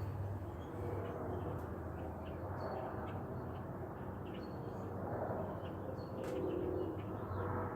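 Outdoor ambience of several birds calling: short high chirps scattered throughout, and a few lower, longer cooing calls, over a steady background rush.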